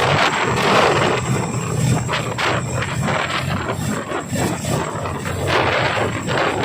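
Boeing CH-47 Chinook tandem-rotor military helicopter running close by: a loud, dense rush of rotor and turbine noise that pulses unevenly.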